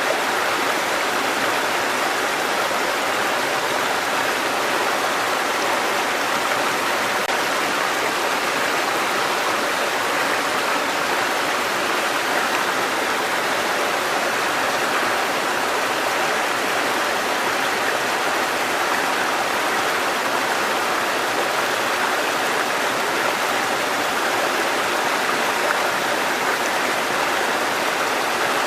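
Mountain stream water cascading over rocks, a steady, unbroken rushing.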